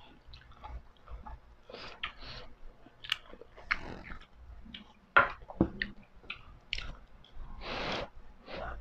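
Close-miked eating: chewing with crisp crunches and a string of short sharp clicks, the sharpest about five seconds in, as fried dynamite rolls (chili peppers stuffed with ground meat in a spring-roll wrapper) and spicy ramen noodles are bitten and chewed.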